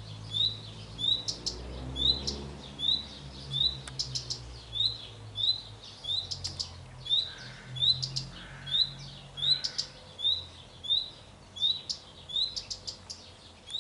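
Male common redstart calling: a short rising whistle repeated about twice a second, mixed with quick clusters of high, dry ticks.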